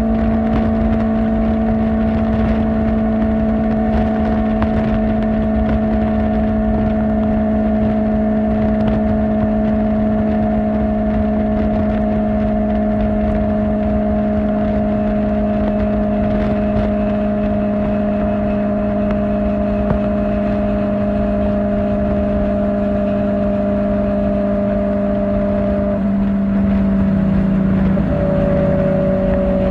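Kawasaki Ninja ZX-4R's inline-four engine through an Akrapovic exhaust, running at steady high revs while cruising, its note holding almost level and easing down slightly. Near the end the pitch drops in a couple of steps. Wind rush sits low underneath.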